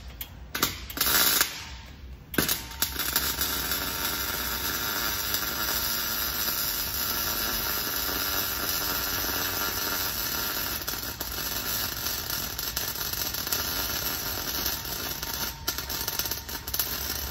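MIG wire welder arc: a few short starts in the first three seconds, then one continuous weld of about fourteen seconds that stops shortly before the end.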